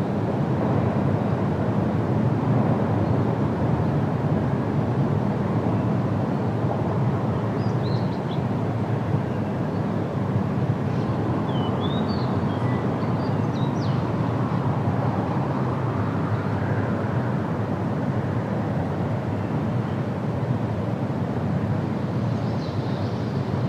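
Steady low rumbling background noise, with a few faint high chirps about a third of the way in.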